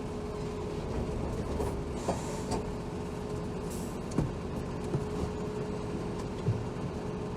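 Cabin sound of a Hino Rainbow HR city bus standing at a stop, its diesel engine idling with a steady hum, broken by a few short knocks and thumps.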